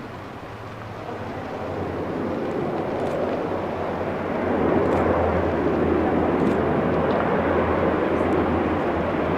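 Fixed-wing aircraft engines running close by, growing steadily louder over the first few seconds and then holding level, as the plane comes near.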